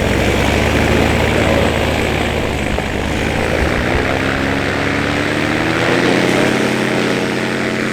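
Paramotor engine and propeller running steadily at high power during a foot launch, its pitch rising slightly in the later seconds.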